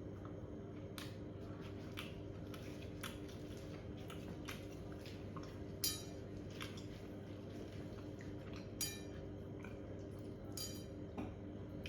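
Scattered light clinks and taps of dishes while eating a meal, about one every second or two, the sharpest near the middle, over a steady low hum.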